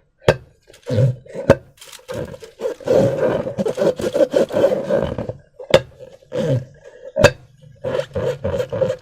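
Slime and a rubber balloon being squeezed and worked by hand: rubbery, squelching swells broken by a few sharp snaps.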